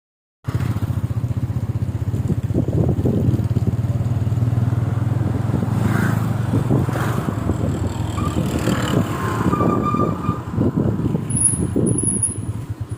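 Motor vehicle engine running steadily, with a few short high tones after about ten seconds.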